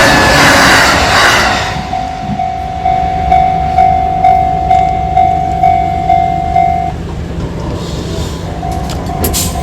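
A train passing over a level crossing, its rush of noise fading over the first two seconds and leaving a low rumble. Over it the crossing's warning bell rings in even pulses about twice a second, stopping about seven seconds in as the train clears.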